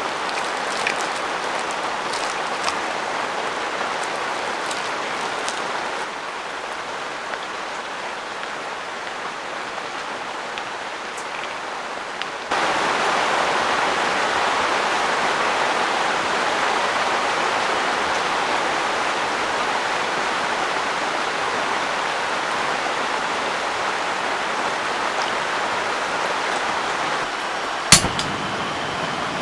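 Heavy rain pouring down steadily, its loudness stepping down about six seconds in and jumping up about halfway through. A single sharp click comes near the end.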